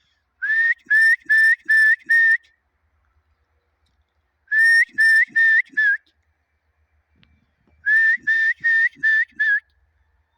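A person whistling to call horses: three runs of short, quick, repeated whistle notes, each rising slightly, with pauses between the runs.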